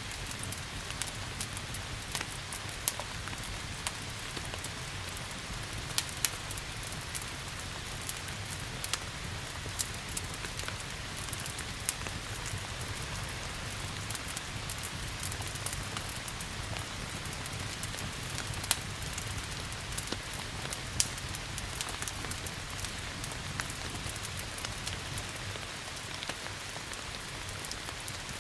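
Steady rain hissing, with a wood fire crackling over it in scattered sharp pops.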